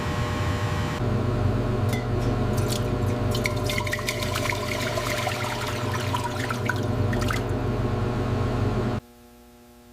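Liquid sounds in a container, with a dense run of small crackling pops over a steady low hum; the sound cuts off abruptly near the end.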